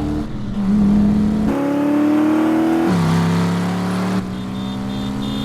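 V8 car engine accelerating hard through the gears. Its pitch climbs and then drops at each upshift, three times in quick succession, and settles into a steady pull.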